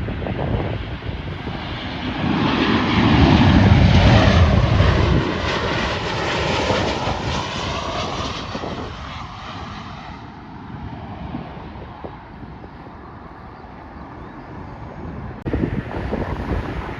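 Jet airliner passing close on its landing approach. Its engine rumble swells to a peak a few seconds in and then fades away, with a sweeping whoosh as it goes. Wind buffets the microphone throughout.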